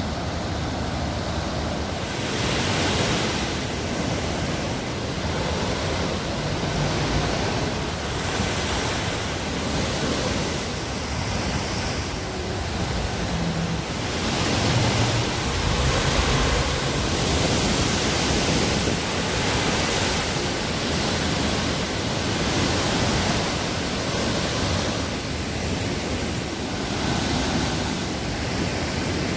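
Waterfall: steady rushing water, its hiss swelling and easing gently every couple of seconds.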